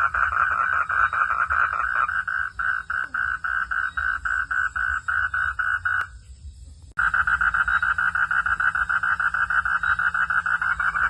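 Frogs calling in a loud, rapidly pulsing night chorus. About six seconds in it drops out for about a second, then comes back abruptly.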